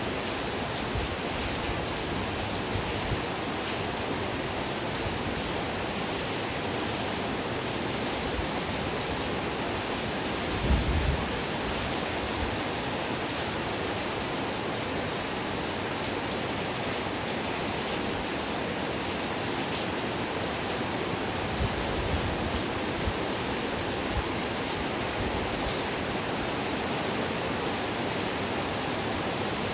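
Heavy rain falling steadily, a dense even hiss. A brief low thud comes about eleven seconds in, and a weaker one around twenty-two seconds.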